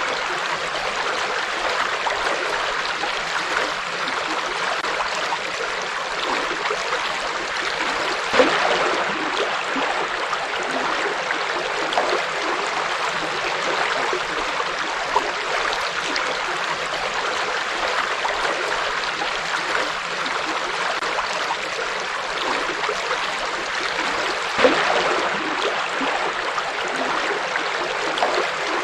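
River water flowing steadily, a constant rushing with brief louder splashes about eight seconds in and again near the end.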